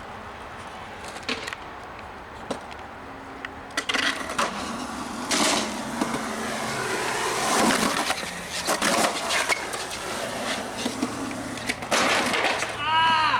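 Skateboard rolling, with several sharp clacks and knocks of the board hitting and landing. A short high squeak comes near the end.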